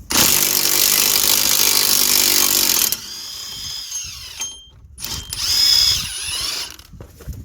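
Impact wrench hammering on a wheel bearing hub bolt: a loud run of about three seconds, then after a short pause a second, shorter run about five seconds in as the bolt is worked loose.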